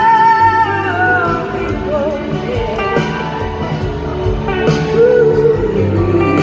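Live rock-blues band performance, full band with drums and bass under a lead melody line that bends and glides in pitch.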